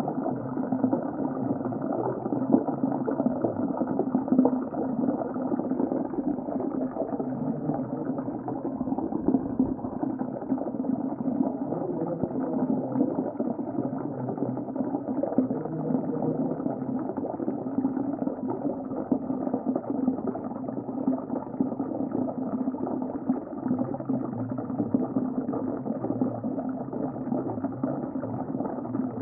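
Steady, muffled underwater ocean ambience: a continuous low bubbling rumble with no high sounds.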